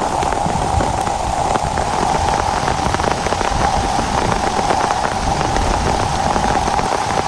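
Heavy rain falling steadily, a dense patter of individual drop hits.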